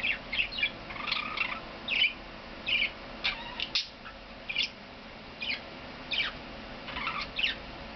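Budgerigar (pet parakeet) warbling and chirping: a run of short, quick chirps and chattering notes, irregular, with brief pauses between them.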